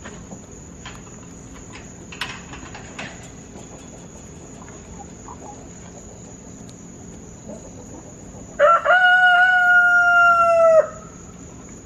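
A rooster crows once, about nine seconds in: a loud call about two seconds long that holds one pitch and sags slightly at the end. Under it runs a steady high insect buzz.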